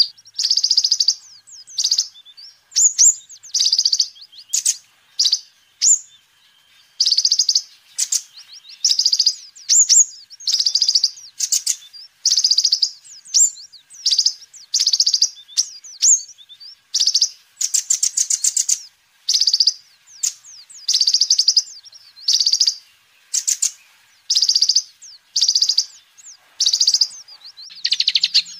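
Kolibri ninja, a sunbird, singing in short, rapid, high-pitched trilled phrases, about one burst a second with brief gaps between.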